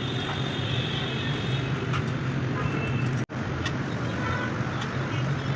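Steady street traffic noise with a low engine hum, broken by a brief sudden dropout a little past halfway.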